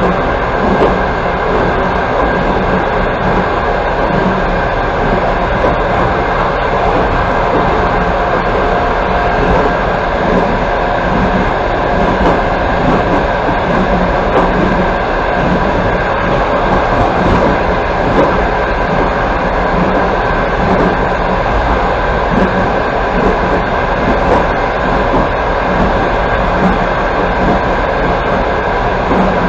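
Steady rolling noise of a passenger train heard from inside a carriage running at speed: a continuous rumble and hiss of wheels on the rails, with faint steady tones running through it.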